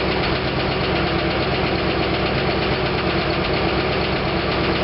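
Freshly rebuilt 1956 DeSoto Seville V8 running steadily at about 1,000 rpm on its first break-in run, with a lifter noise that is normal at first as air purges out of the hydraulic lifters.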